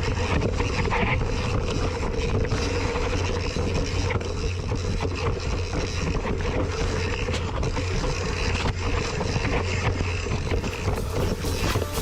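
Mountain bike rolling over rough trail, heard from a bike-mounted action camera: a steady rumble with wind on the microphone and many quick rattles and knocks from the bike.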